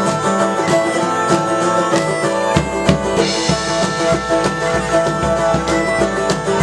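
Medieval-market band playing live: bagpipes over a steady held drone with plucked strings. Deep drum beats, with a cymbal wash, come in about two and a half seconds in and keep a regular beat.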